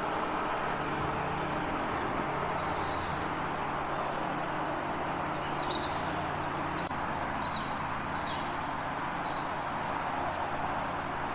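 Small birds chirping in short, scattered calls over a steady low hum and a constant rush of background noise.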